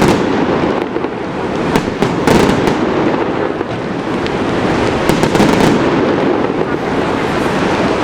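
Fireworks display crackling, with many sharp rapid reports that come thickest in two clusters, a couple of seconds in and again about five seconds in. A steady loud rush runs underneath.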